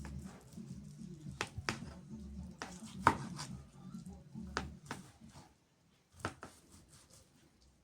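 Kitchen knife knocking on a cutting board while chicken breast is cut into strips: about eight sharp, irregular knocks, the loudest about three seconds in.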